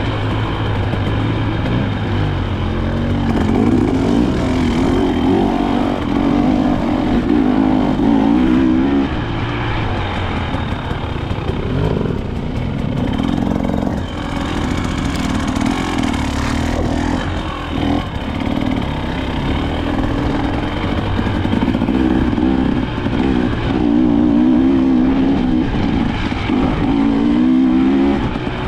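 KTM 300 XC-W two-stroke single-cylinder dirt bike engine running under way, its revs rising and falling again and again.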